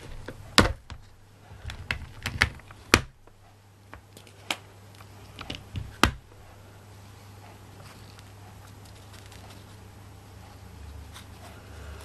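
Sharp clicks and taps of small objects being handled on a tabletop, irregular and scattered through the first six seconds, the loudest about half a second and three seconds in; after that only a faint steady low hum.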